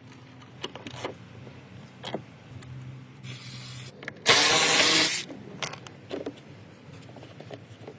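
Scattered clicks and knocks of parts being handled, with two short bursts of hissing spray about halfway through, the second louder and about a second long.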